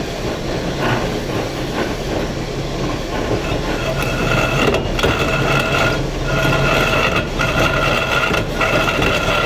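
A power tool working stone, with a low hum throughout. About three and a half seconds in, a steady high whine starts and breaks off briefly about every second and a quarter, in a regular rhythm.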